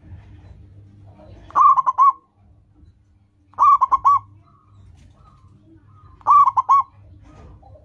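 A local perkutut (zebra dove) cooing its song: three phrases of about four quick, clear coos each, roughly two seconds apart.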